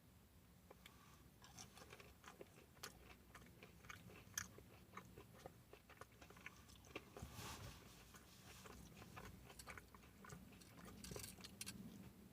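Faint chewing and biting: a breaded chicken fry dipped in ranch being eaten, with small irregular crunchy clicks.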